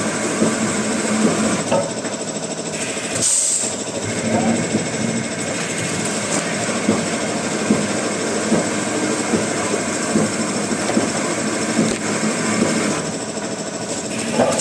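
Wood-processing machinery running, a steady mechanical din with a thin high whine, broken off briefly about three seconds in.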